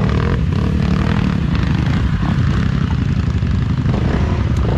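Off-road motorcycle engine running steadily.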